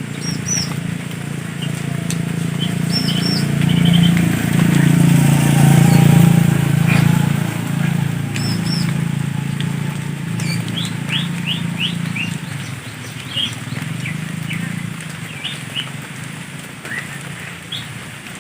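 Small birds chirping in short, scattered calls over a steady low hum that swells for a few seconds near the middle and then eases.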